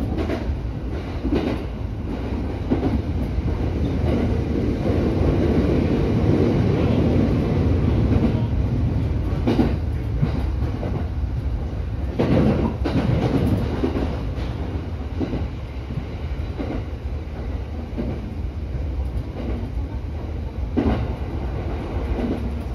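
Electric commuter train running, heard from inside the driver's cab: a steady low rumble of wheels on rail, growing louder about a third of the way in, with a few sharp clacks as the wheels cross rail joints and points.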